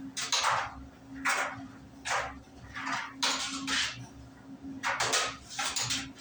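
Euhomy compact tumble dryer running: a steady motor hum under irregular clattering knocks, about two a second, as a hoodie tumbles in the drum. The dryer is faulty, blowing no air and running hot.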